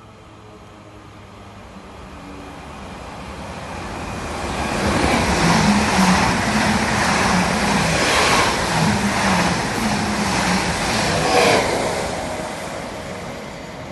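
A train running through on the main line, growing louder over the first few seconds, loudest for several seconds in the middle, then fading away.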